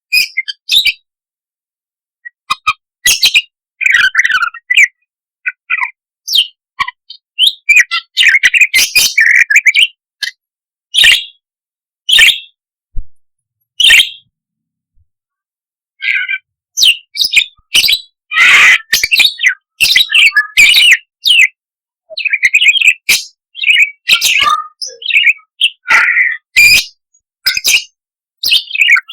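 Budgerigar chattering and chirping in quick, scratchy bursts, with short silent gaps between them. It is a budgie lure call, meant to set other budgies singing.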